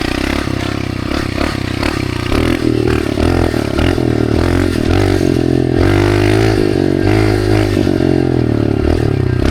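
Dirt bike engine revving up and down while riding off-road, its pitch rising and falling over and over, with clatter from the bike over rough ground.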